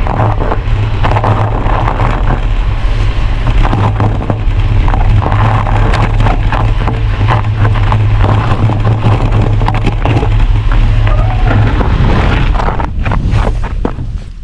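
Heavy wind buffeting the microphone of a cyclist riding into the wind, a loud low rumble with scattered crackles and clicks; the rumble eases about twelve seconds in.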